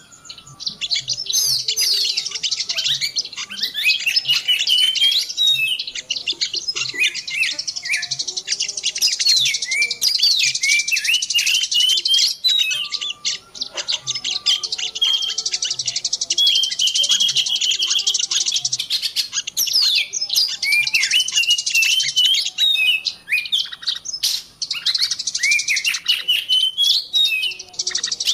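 Many small songbirds chirping and twittering over one another in a dense, high-pitched chorus of quick rising and falling notes. This is a lure recording of small wild birds, of the kind played to draw birds in for trapping.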